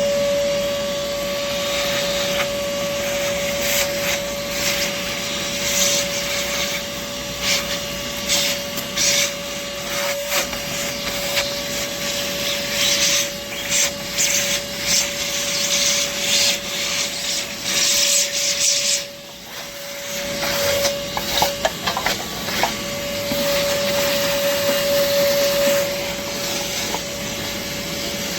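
LIGO 20V cordless wet/dry shop vacuum running with a steady motor whine. Hay and debris rattle and scrape through the hose in irregular bursts, and the sound briefly drops about two-thirds of the way through.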